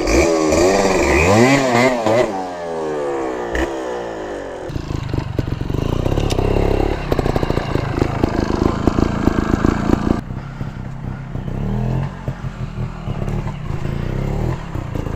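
Two-stroke dirt bike engines revving up and down in quick blips for the first four seconds or so, then a bike running close by with a rapid, pulsing note for the rest.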